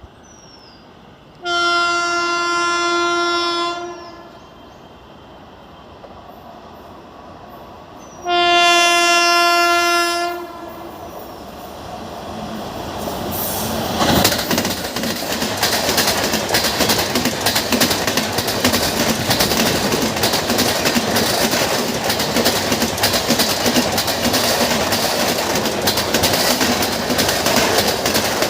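Indian Railways locomotive horn sounding two blasts of about two seconds each. A train then rolls past, wheels clacking over the rail joints.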